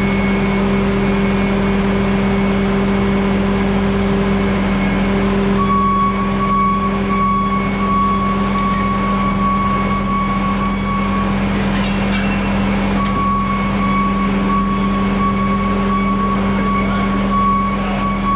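Bobcat S650 skid steer's diesel engine running steadily. A steady high whine joins about six seconds in, breaks off briefly past the middle and comes back, with a couple of faint clicks.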